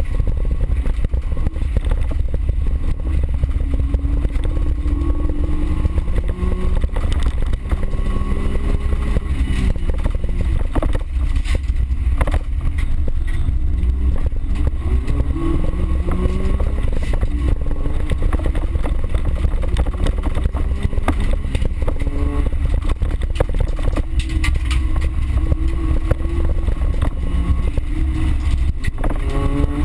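Small car's engine driven hard, its pitch climbing and dropping again and again as it revs through the gears, heard from inside the cabin over a heavy rumble from the dirt track, with occasional knocks.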